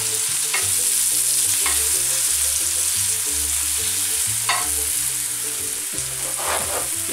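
Mushrooms frying in melted butter in a non-stick frying pan, a steady sizzle, while a wooden spatula stirs them, with a few short scrapes against the pan.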